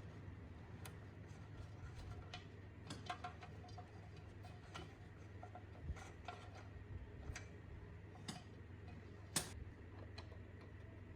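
Light, irregular clicks and taps of hand work on small parts, with one sharper click about nine seconds in, over a steady low hum.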